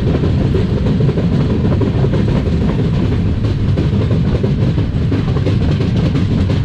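Passenger train coaches running on the rails: a steady low rumble of wheels and running gear with a faint clatter of the track joints through it.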